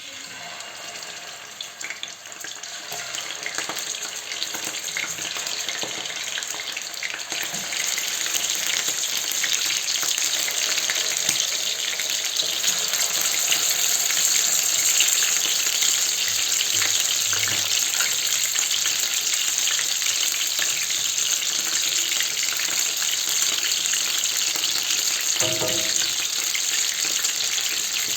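Chicken pieces frying in a mix of olive oil and ordinary cooking oil, sizzling steadily. The sizzle starts abruptly and grows louder over the first several seconds, with a short knock near the end.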